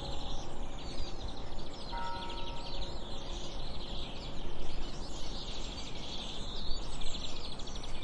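Birds chirping and trilling over a steady outdoor hiss, with a few faint held music notes about two seconds in.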